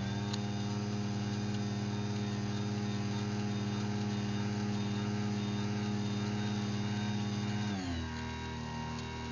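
Craftsman DC belt-drive garage door opener running after a wall-button press: a steady motor hum that slows to a lower pitch near the end as the motor eases down, then stops.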